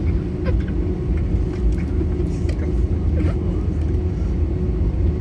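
Cabin noise of an Airbus A320 airliner during departure: a steady deep rumble of the engines and airflow under power, with a constant hum running through it.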